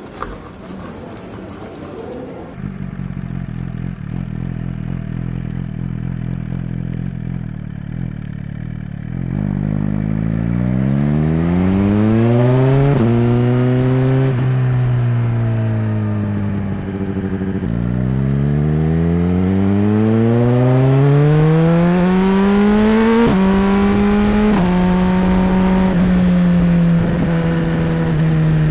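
Suzuki GSX-R1000R's inline-four idling steadily, then pulling away and revving up with an upshift, the engine note falling as it slows. It then accelerates hard again through two quick upshifts and settles into a steady cruise near the end.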